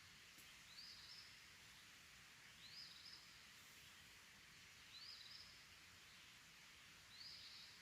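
A faint bird call, one short note that rises and then levels off, repeated four times about every two seconds over a soft steady hiss of outdoor quiet.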